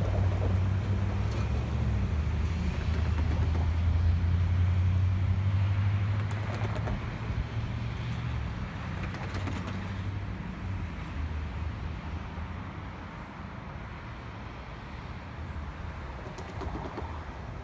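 Low, steady engine drone of a train at the platform, starting suddenly, loudest for the first several seconds, then fading away after about ten seconds.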